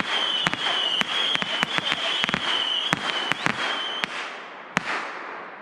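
Aerial fireworks going off in a rapid barrage: many sharp bangs over a dense crackling hiss and a steady high whistle. The barrage thins out after about three and a half seconds, with a last bang near the end as the hiss dies away.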